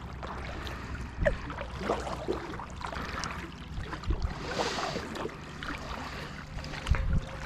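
Water lapping and sloshing around a small boat on a river, with scattered light knocks against the hull and a low steady hum underneath.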